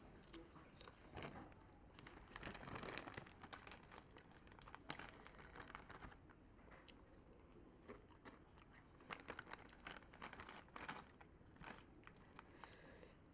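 Faint, irregular crinkling and crackling of a Lay's Magic Masala chip packet and the chips being handled, in scattered clusters of small crackles.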